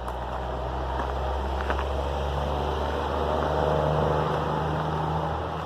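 Engine drone of a passing vehicle, swelling to a peak about four seconds in and then easing off.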